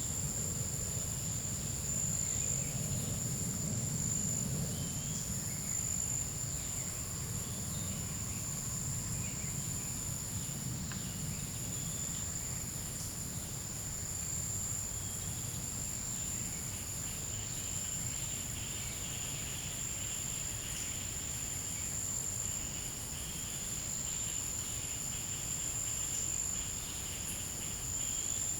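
Forest insects keeping up a steady, continuous high-pitched drone on one unbroken tone. Fainter scattered chirps and a low rumble sit beneath it, and a second buzzing layer joins partway through.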